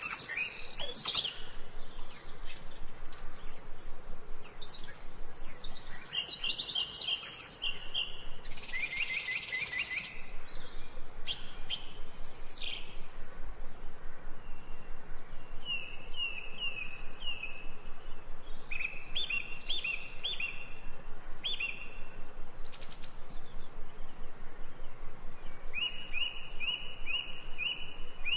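Ambient recording of several songbirds chirping and trilling, short high calls and rapid repeated chirp series overlapping throughout.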